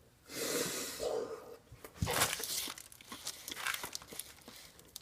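Paper fast-food wrapper crinkling and tearing, with a stretch of rustling followed by a few sharper crackles about two seconds in and scattered small clicks after.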